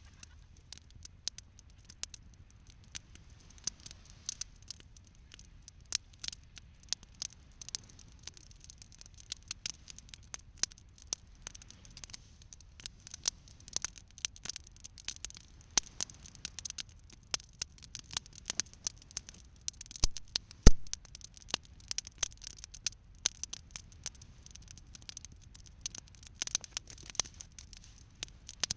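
Wood campfire crackling, with irregular small snaps and pops and one louder pop about twenty seconds in.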